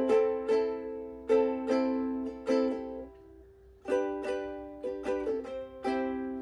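Ukulele chords strummed in a slow, repeating riff, each strum ringing out, with a brief stop about three seconds in before the strumming picks up again.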